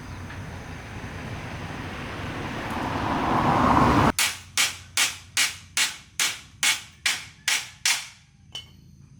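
A rushing noise swells louder for about four seconds and stops abruptly. It is followed by nine sharp hammer blows on metal, about two a second, each ringing briefly, then one lighter tap.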